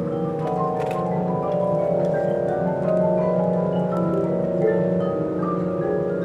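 Marching band playing a sustained, layered passage, with front-ensemble mallet percussion (marimba, vibraphone, glockenspiel) playing short notes over the held chords.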